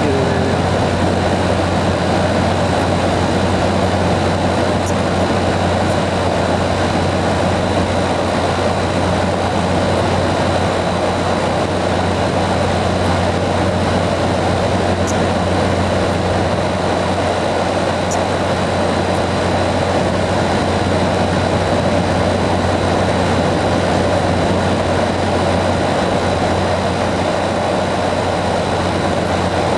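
Kenmore Elite 15,100 BTU window air conditioner running: a steady low hum from the compressor and fan, with an even rush of air over it.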